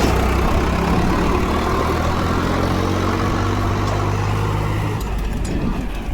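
Tractor engine running at a steady note, which drops away about five seconds in.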